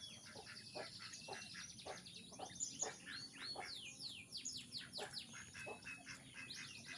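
A group of young quail chicks peeping: many quick, high, downward-sliding chirps overlapping one another.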